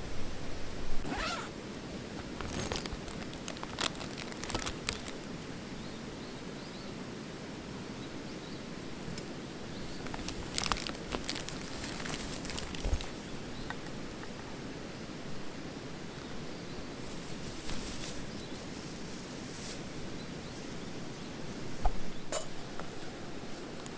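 Steady outdoor background noise with scattered short rustles and light clicks, a few seconds apart.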